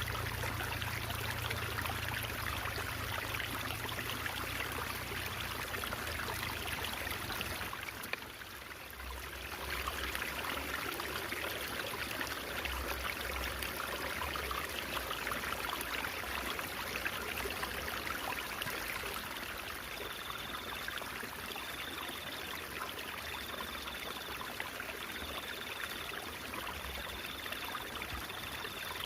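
A stream of water gurgling and trickling steadily, with a brief dip in level about eight seconds in. From about two-thirds of the way through, a faint high note repeats roughly once a second.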